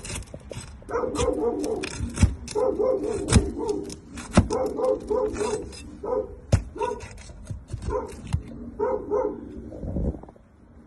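A dog barking repeatedly in short bursts, with several sharp knocks among the barks.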